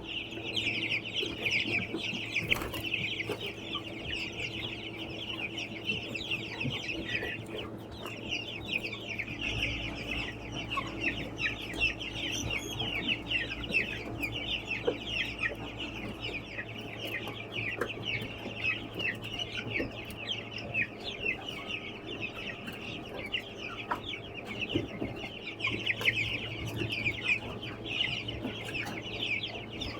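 A flock of young chickens chirping and peeping continuously, many short calls overlapping.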